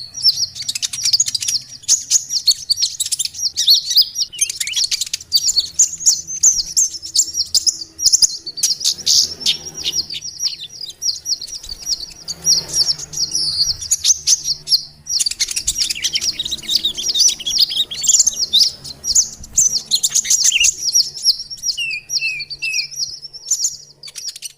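Bird-lure recording of sunbirds chattering: a dense run of fast, high-pitched chirps and trills from several birds at once, a noisy 'ribut' call used to draw small birds in. The calling thins briefly about halfway through, and a short run of three falling notes comes near the end.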